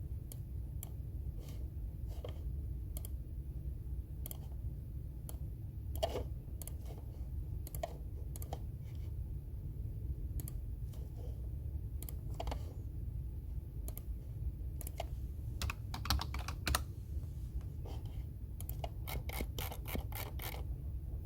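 Computer keyboard typing: keystrokes in irregular spurts with pauses between, and a quick run of keys near the end, over a steady low background hum.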